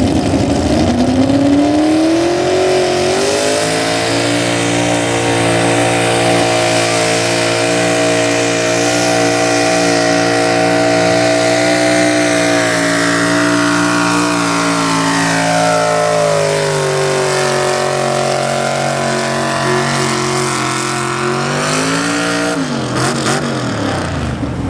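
Two-wheel-drive super stock pickup's engine at full throttle pulling a weight sled. The revs climb over the first few seconds, hold high and steady, sag about two-thirds of the way through as the truck bogs under load, rise briefly, then fall away sharply near the end as the throttle is let off.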